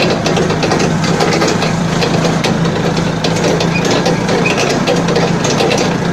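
Balkancar forklift's freshly overhauled engine running steadily, a low steady hum with many light clicks and clatter over it.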